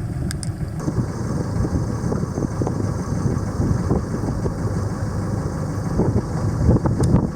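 Boat engine running in reverse gear as the boat backs away from the pier, a steady low rumble with wind buffeting the microphone.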